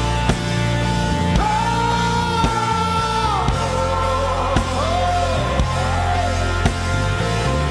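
Live gospel worship band music: sustained low chords under a beat about once a second, with a long held melody note that, about halfway through, drops and bends in short wavering phrases.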